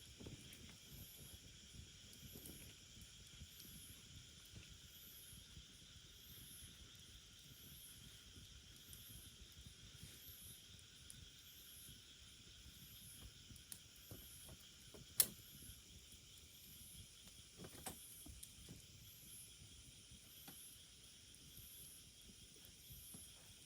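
Faint insect chorus: a steady high trilling with a very high chirp repeating about once a second. A few sharp pops from the burning firewood of a bonfire, the loudest about two-thirds of the way through.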